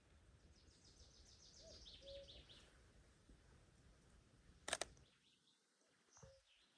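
A songbird singing faintly: a quick run of high notes that falls in pitch over about two seconds. A single sharp click comes a little before the sound cuts out to silence.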